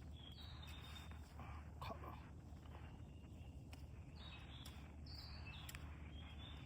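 Faint bird calls: short, high notes repeating every second or so, over a low steady rumble with a few scattered clicks.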